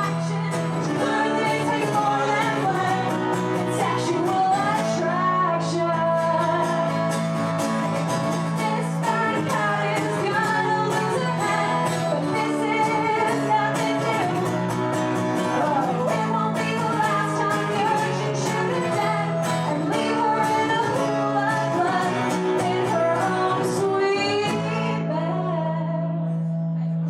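Live band playing a rock song with sung vocals and guitar. Near the end the sharp strokes stop and a low chord is held, as the song winds down.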